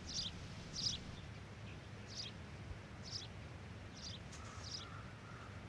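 Outdoor ambience: short, high bird chirps about once a second over a steady low hum.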